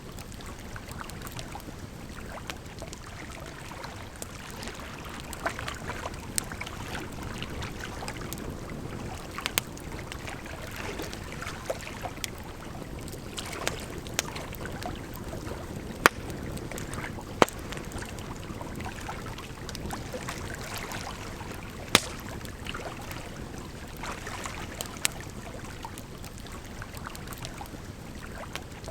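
Wood fire crackling with scattered sharp pops, the loudest about 16, 17 and 22 seconds in, over a steady rush of water.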